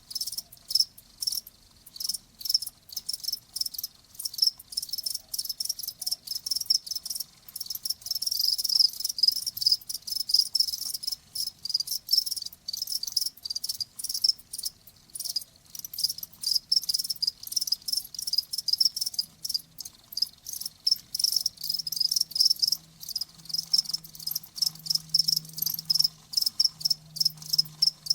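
Cricket chirping: a steady run of short, high chirps, several a second.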